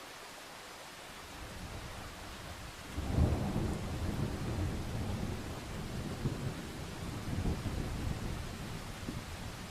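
A roll of thunder over steady rain: a low rumble builds about a second in, breaks louder about three seconds in, then rolls on, rising and falling, and fades near the end.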